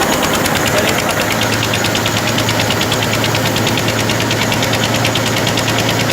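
Tractor-driven flour mill (atta chakki) running: the tractor engine runs steadily under the mill's load with a fast, even mechanical clatter. A steady low hum comes in about a second in.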